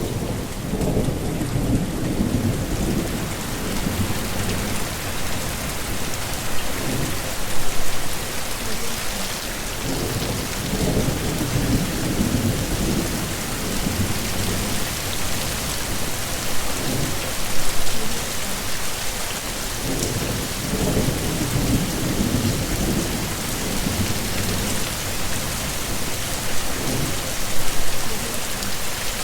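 Steady heavy rain hissing, with low rolling rumbles of thunder swelling and fading several times.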